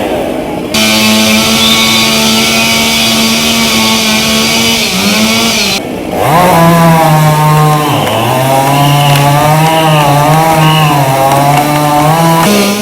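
Chainsaw running at high revs while cutting a fallen tree, its pitch dipping under load and picking up again, with two short breaks in the sound.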